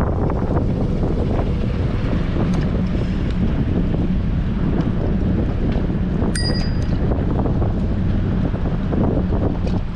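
Strong wind buffeting an action camera's microphone on a moving bicycle, a steady rushing roar. A bicycle bell rings once, briefly, about six seconds in.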